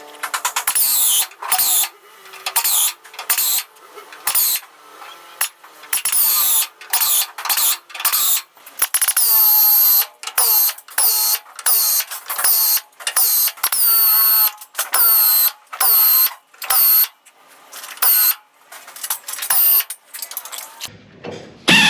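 Power drill run in many short bursts into sheet-metal roof structure, a whine that drops in pitch within each burst, with brief pauses between.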